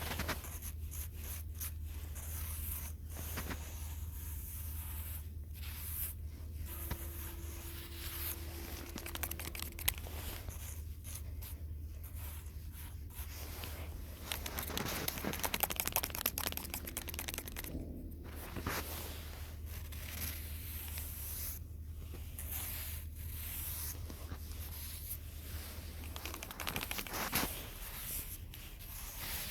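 Close-up rustling, crinkling and scraping of handled material in irregular spurts with brief pauses, over a low steady hum that stops near the end.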